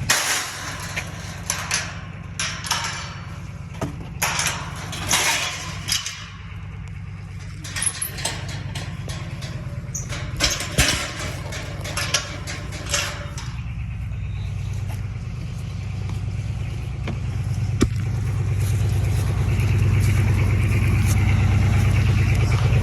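A vehicle engine running steadily, with a string of knocks and clatters over roughly the first thirteen seconds. After that the engine alone carries on, growing gradually louder toward the end.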